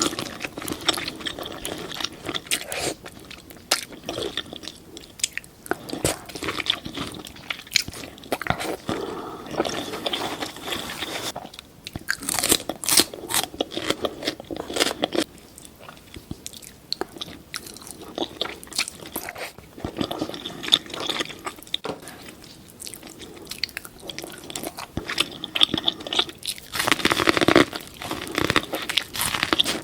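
Close-miked mukbang eating of seafood: repeated biting, crunching and wet chewing, with dense clicks and smacks throughout and louder crunches about halfway through and again near the end.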